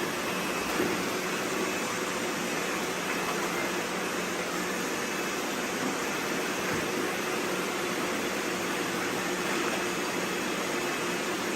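Many robot vacuums running at once: a steady whir of their motors and brushes with a faint hum under it.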